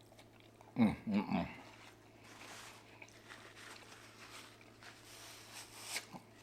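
A person eating close to the microphone: a short hummed vocal sound with a wavering pitch about a second in, then quieter chewing with soft mouth clicks.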